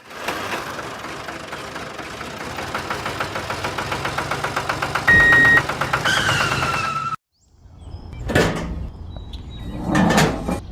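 Small engine running with a beat that quickens over several seconds, then a short beep, then a falling whine that cuts off suddenly. After a pause, two swelling rushes of noise follow.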